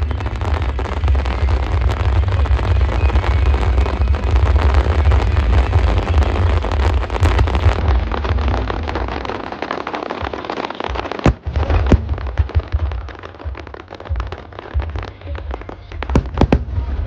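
Aerial fireworks bursting: a dense, continuous crackle over a low rumble, then single sharp loud bangs, a pair about two-thirds of the way in and a quick cluster near the end.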